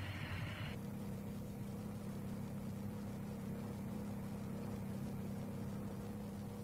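Car engine noise: a louder rushing run cuts off abruptly under a second in, leaving a steady low hum.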